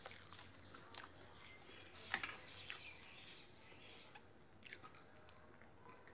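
Faint chewing and small mouth clicks of someone eating soft idli, with a few scattered light ticks.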